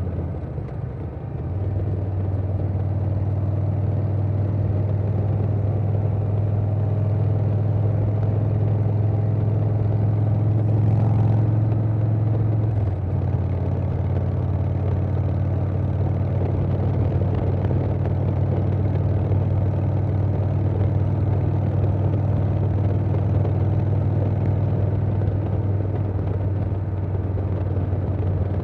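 Harley-Davidson Softail Standard's Milwaukee-Eight V-twin running steadily through a Vance & Hines Big Radius 2-2 exhaust, with wind noise. The engine note steps up under throttle about a second and a half in, climbs slightly, then drops back a little about thirteen seconds in and holds steady.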